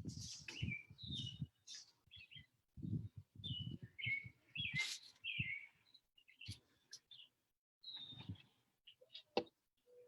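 Birds chirping in short, repeated calls with quick pitch glides, with soft low thuds between them.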